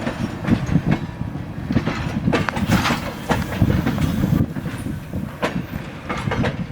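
Railroad passenger cars rolling on track: a steady low rumble with irregular clicks and knocks of the wheels over rail joints.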